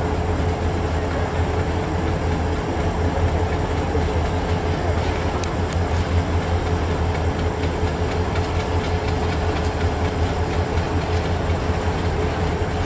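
Passenger train running steadily on the rails: a continuous loud rumble with a steady hum through it, and a few light clicks about halfway through.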